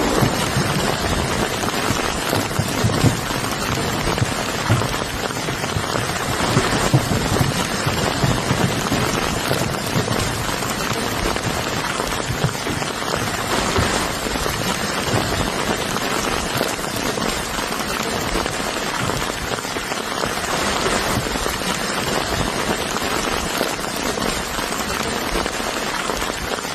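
A steady, even rushing hiss like heavy rain on a surface, with no distinct blasts.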